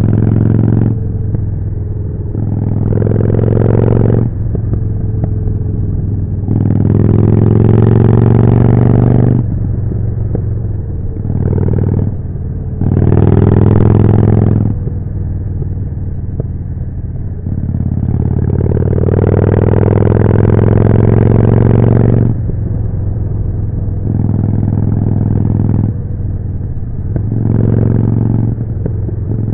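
Harley-Davidson Forty-Eight's air-cooled 1200 cc V-twin running through a Jekill & Hyde exhaust, going on and off the throttle. About five stretches of acceleration are louder and rise in pitch, and each drops back to a lower, quieter engine note as the throttle closes.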